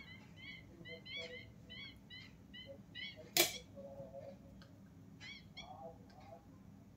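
A bird chirping in a quick repeated series, about two short chirps a second, stopping about three seconds in and coming back briefly near the end. About three and a half seconds in, a single clink of a steel spoon set back into a steel ghee pot.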